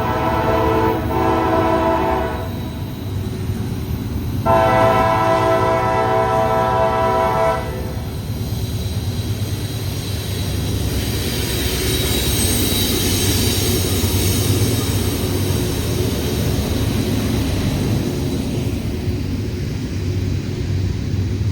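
CSX freight locomotive's multi-chime air horn blowing two long blasts, the first already sounding and broken briefly about a second in. Then the freight train rumbles steadily past.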